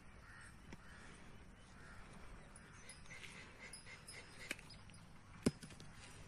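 Faint outdoor ambience with short, repeated bird calls, a run of them about three seconds in, and two sharp clicks near the end, the second the loudest.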